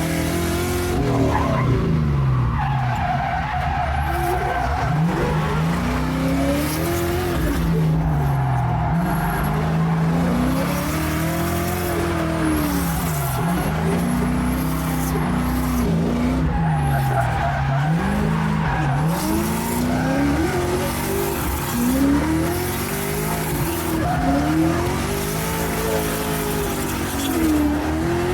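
LS-swapped Fox-body Mustang's V8 revving up and down over and over while drifting, with tyres skidding and squealing, a second car running in tandem.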